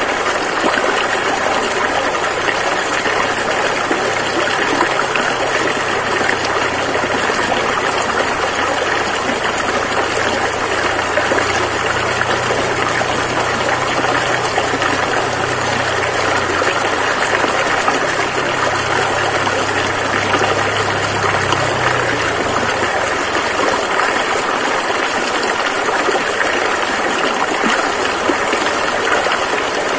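Rushing river water, a dense steady rush. Under it a low engine-like hum swells and then fades out about three-quarters of the way through.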